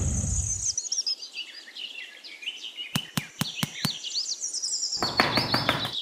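Birds chirping in quick, high, rising and falling calls, with a short run of about five sharp clicks a little past the middle. Background music comes back in about five seconds in.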